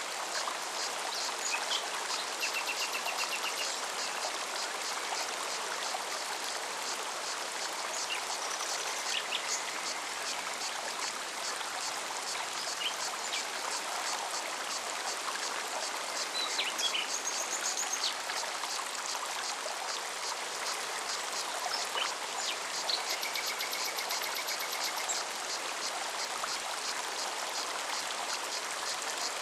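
Mountain forest stream running steadily. A cicada pulses evenly and rapidly the whole time, and birds give short trills and chirps now and then.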